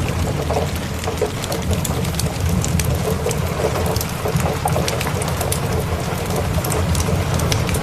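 Steady rain of a thunderstorm with a low rumble of thunder underneath, fading out of a louder roll just before. Many sharp ticks and crackles run through it, from raindrops and a crackling fireplace.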